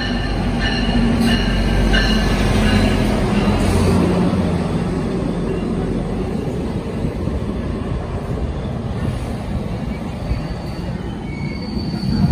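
GO Transit diesel locomotive and bilevel coaches arriving and passing close by. A heavy low rumble is loudest in the first few seconds as the locomotive goes by, then the coaches roll past with on-and-off high wheel and brake squeals as the train slows for the station.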